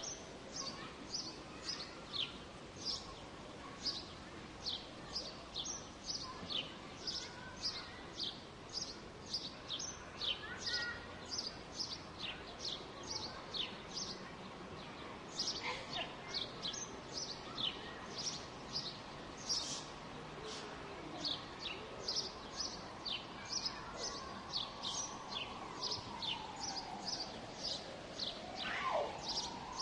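Small birds chirping over and over, short high chirps that drop in pitch, about two a second, over a steady low hum of distant city noise. Near the end a faint tone slides down and back up.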